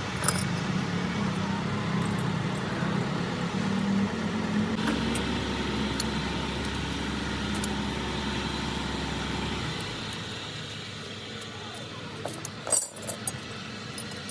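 A motor vehicle engine running steadily, with a deeper drone added for several seconds in the middle. A few sharp metallic clinks come near the end.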